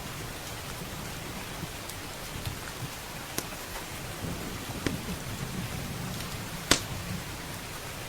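Steady rain with a low rumble of thunder underneath, and a few sharp pops from a crackling wood fire, the loudest about two-thirds of the way through.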